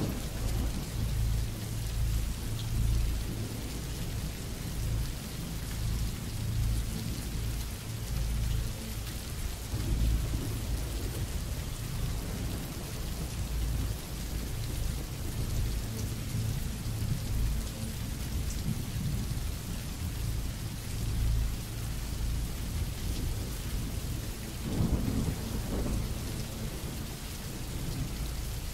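Recorded rain falling steadily, with low thunder rumbling that swells and fades throughout.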